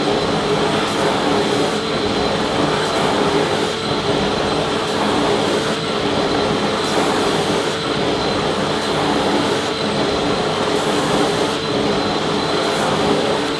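Vacuum cleaner running steadily, a loud even rushing noise with a constant motor whine.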